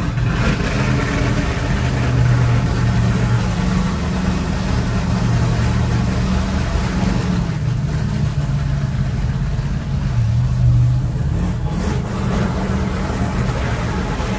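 Car engines running at low speed with a deep, steady exhaust rumble, the pitch shifting a little now and then.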